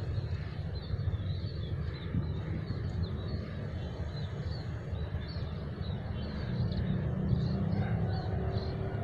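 Low, steady drone of a small trail-bike engine, a Honda Revo's single-cylinder four-stroke, running at a distance, with faint high chirps over it.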